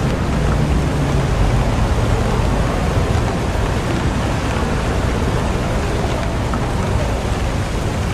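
Steady rain falling in a city, with a low rumble underneath.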